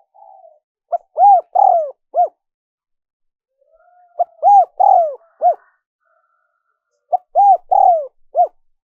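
Spotted dove cooing: three phrases of four short, arched coos each, about three seconds apart.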